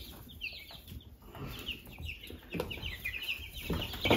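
Birds chirping in the background: a long run of short, high chirps repeated several times a second, with a few faint knocks.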